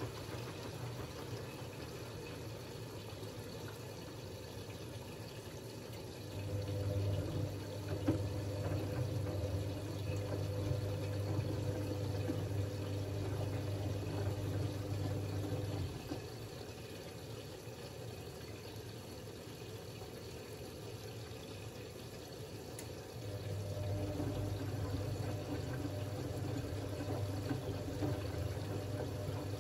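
Siemens Siwamat 6143 washing machine during a wash cycle: the drum motor hums in two spells, from about six to sixteen seconds in and again from about twenty-four seconds, with water moving in the drum throughout.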